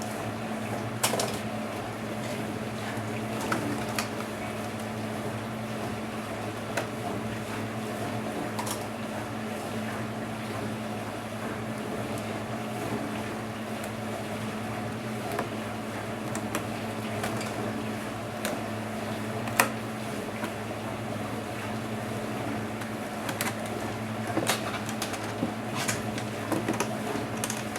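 Scattered sharp clicks and taps of a Dell Inspiron 1525 laptop's plastic and metal parts being handled and worked apart, over a steady low hum; one click a little before two-thirds of the way through is the loudest.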